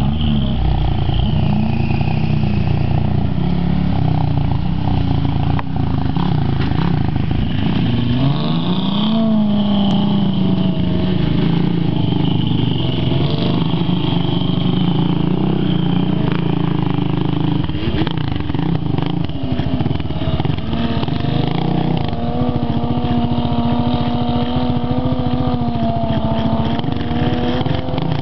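Toyota pickup's swapped-in 5M-GE Supra inline-six engine working under load on sand, its revs rising and falling repeatedly, then held higher and steadier for the last several seconds.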